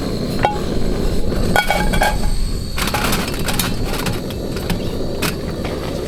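A whisk beating batter in a cooking pot, with irregular clinks and taps as it strikes the sides, a few of them ringing briefly.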